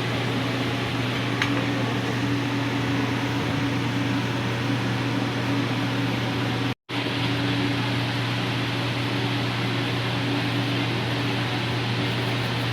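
Steady mechanical hum with a low drone and an even hiss. The sound drops out briefly about seven seconds in.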